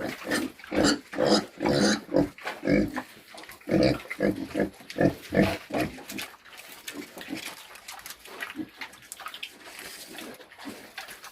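Pigs grunting repeatedly while feeding, about two short grunts a second for the first six seconds, then quieter.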